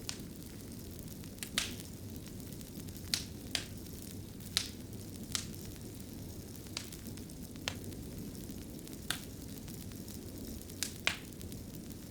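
Wood fire crackling in a fireplace: a steady low rush of burning with sharp, irregular pops and snaps, about a dozen. The sharpest pops come a little over a second in, around the middle, and near the end.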